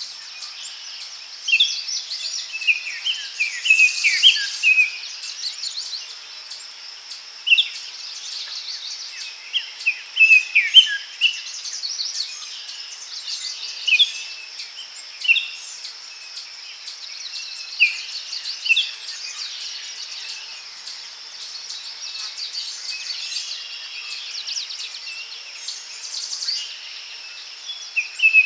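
Daytime forest ambience: several songbirds chirping and calling in short phrases over a steady, high-pitched insect drone.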